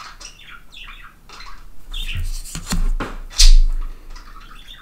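A small bird chirping and squawking repeatedly in quick, varied calls. A few bumps or knocks come through in the middle, the loudest about two-thirds of the way in.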